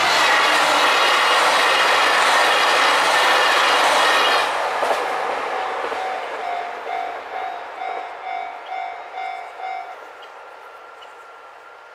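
KiHa 261 series diesel limited express train passing over a level crossing at speed, loud for the first four seconds or so, then fading as it moves away. The crossing's warning bell keeps ringing at about two to three strokes a second under the fading train, then stops about ten seconds in.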